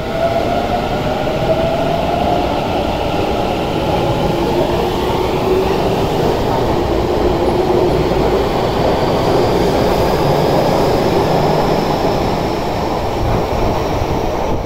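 Electric commuter train pulling out of an underground station: a steady rumble of wheels on rail, with a thin motor whine that climbs slowly in pitch as the train gathers speed over the second half.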